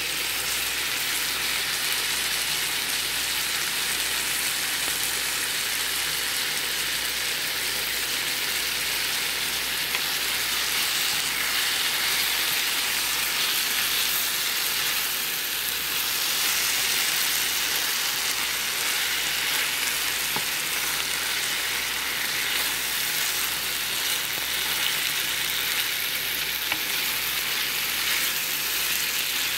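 Sliced bitter melon, onion and tomato sizzling steadily in a hot frying pan while being stirred with a wooden spatula.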